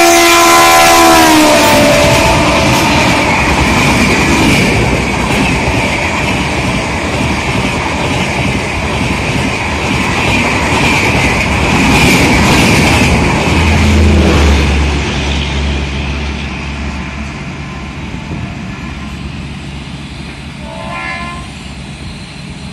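Shatabdi Express passenger train, hauled by an electric locomotive, passing at speed: the locomotive's multi-note air horn sounds as it arrives and drops in pitch as it goes by. The rushing noise and rail clatter of the coaches follow, fading slowly as the train recedes, with a faint short horn near the end.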